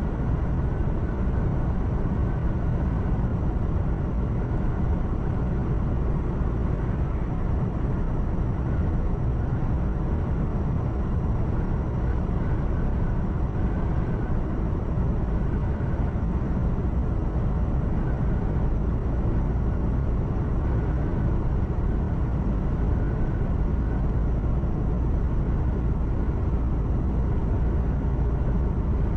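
Truck engine and road noise heard from inside the cab while driving at steady speed: an even, low drone with no changes.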